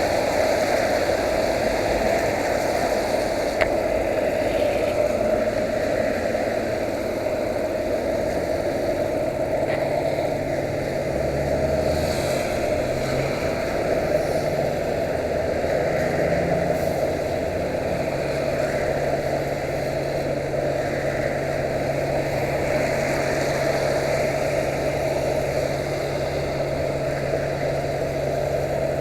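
Yamaha YBR125's single-cylinder four-stroke engine running steadily, with a low steady tone joining about nine seconds in.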